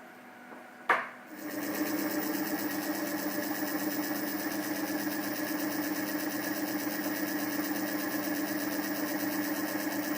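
A sharp click, then a brushless (BLDC) motor test rig starts up about a second and a half in and runs steadily with an even hum and a higher whine. The motor is being turned as a generator.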